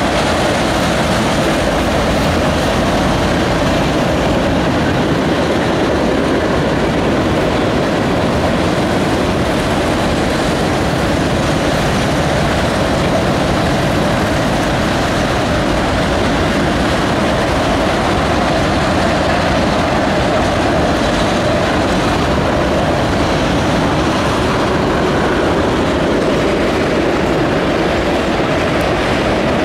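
Autorack freight cars rolling past on an elevated bridge: a steady, loud rumble and rattle of steel wheels on rail.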